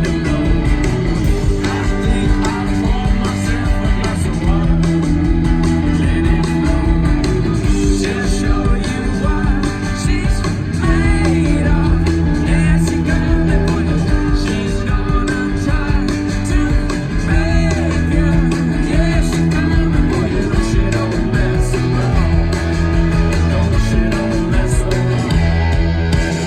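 Live rock band playing loud, with distorted guitars, bass, drums and a singer, heavy and boomy as heard from the crowd.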